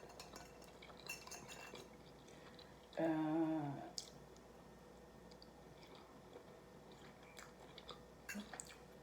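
Faint close-up chewing of food, with soft wet clicks scattered through. About three seconds in, a short hummed "mm" lasting under a second is the loudest sound.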